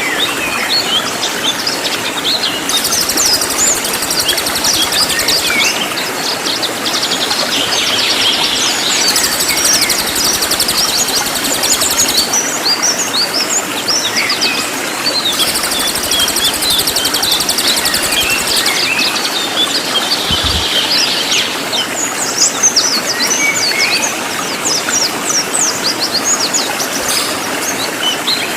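Cililin songbird singing a loud, dense run of quick high chirps and sweeping whistles, over a steady rush of flowing water. Three times a high buzzing comes in for a few seconds and stops.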